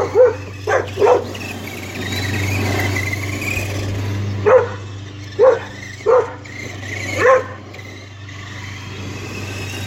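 Dog barking: about seven short barks, three in quick succession at the start and four more, spaced out, from about four and a half seconds in.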